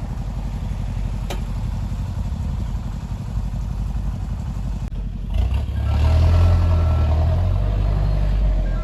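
Hino Mega 175 hp six-wheel truck's diesel engine running under load in mud. About five and a half seconds in it revs up and gets louder and heavier, with a single sharp click early on.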